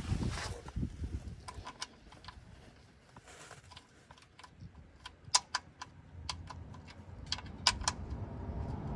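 Irregular light metallic clicks and clinks, some in quick pairs, many with a short ring, after a few dull knocks in the first second: small metal tools or parts being handled and set down.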